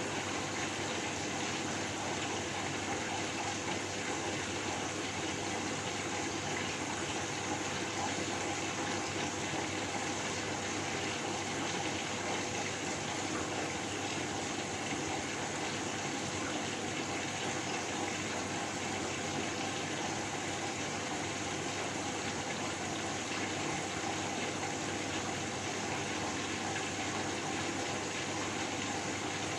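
Continuous white noise: an even, unchanging rushing hiss with faint steady hums underneath.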